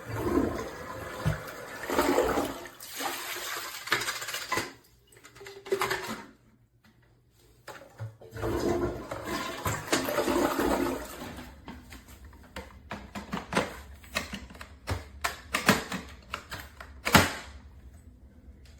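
Water rushing and splashing in two spells with a short pause between, then a run of sharp clicks and knocks of plastic parts being handled.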